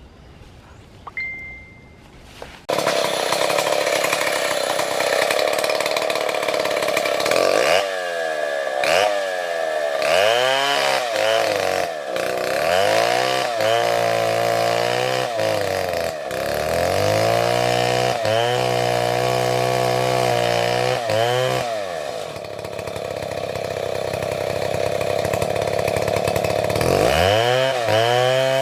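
Chainsaw coming in loud a few seconds in, then revving up and down over and over as it cuts wood, running steadier for a while, and revving again near the end.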